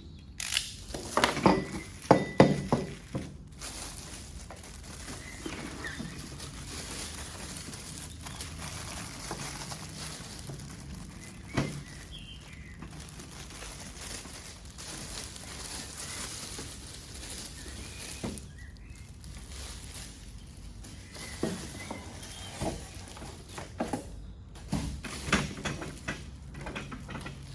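A newly unboxed espresso machine and its packing being handled, giving scattered knocks and thunks. The loudest cluster comes in the first few seconds, a single knock falls near the middle and more come near the end.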